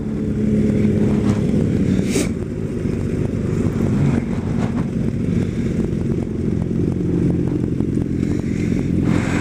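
Kawasaki Ninja ZX-10R sport bike's inline-four engine running at a steady, even pitch while riding.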